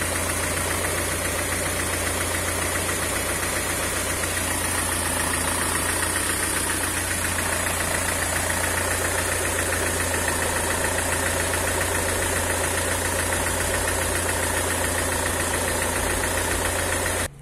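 Car petrol engine idling steadily, run by a Speeduino aftermarket ECU, while its ignition timing is checked with a timing light.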